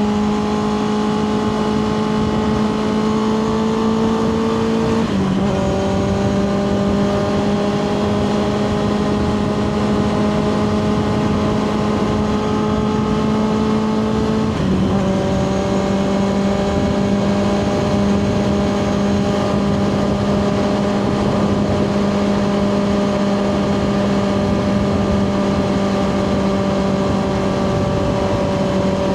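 2024 Kawasaki ZX6R inline-four sport bike engine through a Two Brothers slip-on exhaust, cruising under steady throttle. It shifts up twice, at about five seconds and again about halfway through, the pitch dropping at each shift and then holding nearly steady.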